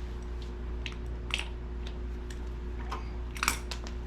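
Damp sandblasting media trickling and dropping out of an old sandblaster tank onto the floor: scattered small ticks and taps, with two louder clicks, one about a second in and one near the end. A steady low hum runs underneath.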